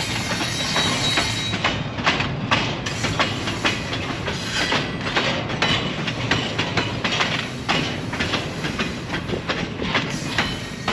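A train rolling past, its wheels clattering over the rails in a steady stream of irregular clicks and knocks over a continuous running noise.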